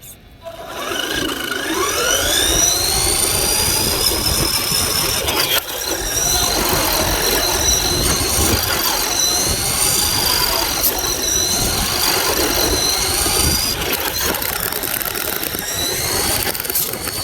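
Electric motor of an RC truck whining as it accelerates, its pitch climbing steeply over the first couple of seconds, then holding high with small rises and dips as the throttle changes. Rough tyre and chassis rumble from the pavement lies under it, heard close up from a phone mounted on the front of the truck.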